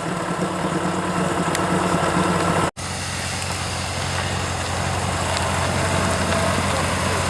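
A car engine idling steadily, its low hum unbroken except for a momentary cutout of the whole sound a little under three seconds in.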